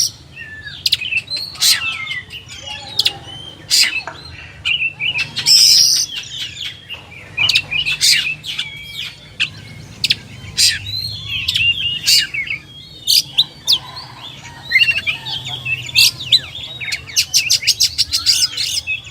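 Oriental magpie-robin (kacer) singing a varied song of short curving whistles mixed with sharp, loud clicking notes, breaking into a fast run of clipped notes near the end.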